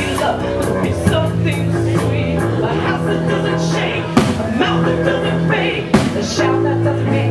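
Live rock band playing loudly: a drum kit with regular cymbal and drum hits over held bass and guitar notes.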